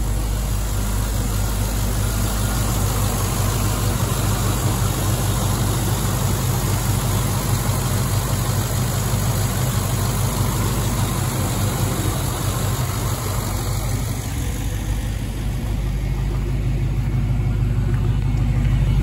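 GM Performance 6.2-litre LS3 V8 idling steadily, heard from the open engine bay.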